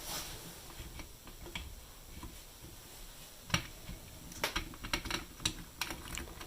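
Light clicks and taps of small screws and a screwdriver as a transistor radio's chassis is fitted into its case and the screws are started. There is a sharper click about three and a half seconds in and a quick run of clicks near the end.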